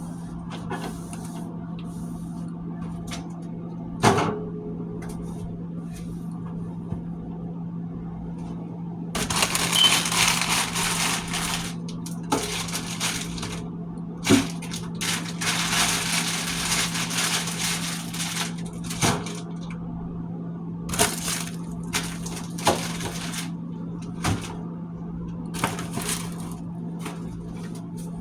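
Food containers and packaging being handled while a refrigerator is cleaned out: scattered knocks and clunks, with several stretches of rustling, crinkling packaging, over a steady low hum.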